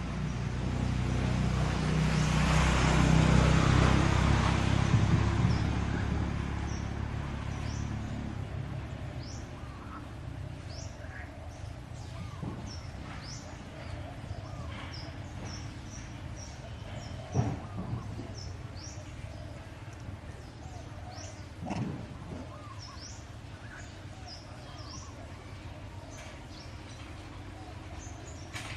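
Birds chirping repeatedly with short, high calls. A loud rumbling noise swells and fades over the first several seconds, and there are two sharp knocks later on.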